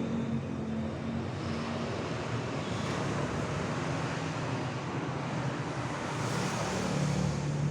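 Steady noise of motor vehicle engines, with one engine hum fading out in the first second or so and another coming up near the end.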